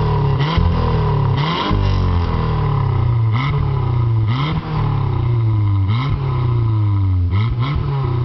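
Turbocharged 16-valve engine of a Renault Twingo running loud, its revs sinking slowly and then jumping back up again and again, about every second or so, with a short sharp burst at each jump.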